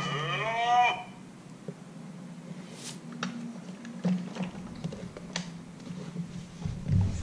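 A Fisher-Price Little People toy farm's electronic sound effect ends about a second in, rising in pitch. It is followed by scattered light plastic clicks and taps as the farm's silo is turned and handled.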